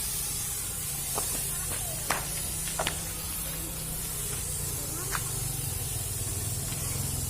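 Thermal fogging machine running: a steady low drone with the hiss of the fog spray, broken by a few short, sharp sounds.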